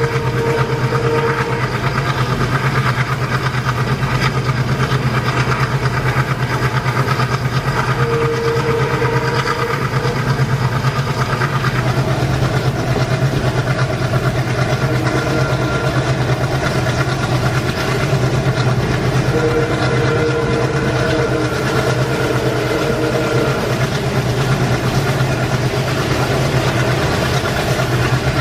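Train running on Indian Railways track: a steady low hum with dense rolling clatter over it, and a faint tone that comes and goes three times.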